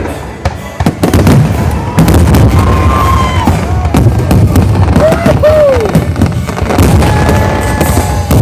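Fireworks going off in quick succession, a dense run of bangs and crackles with deep booms that gets loud about a second in.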